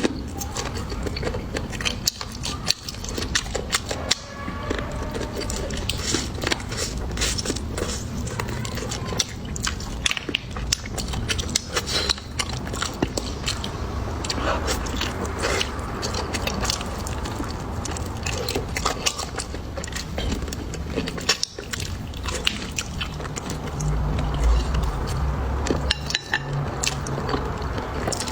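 Close-miked eating sounds of pig tail being chewed and bitten, with many short wet clicks from the mouth.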